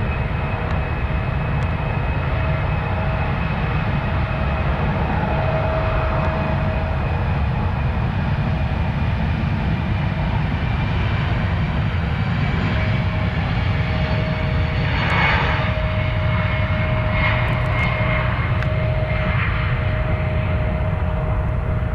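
Airliner engines running steadily: a continuous low rumble with a steady whine on top, and a few brief swells in the rumble about two-thirds of the way through.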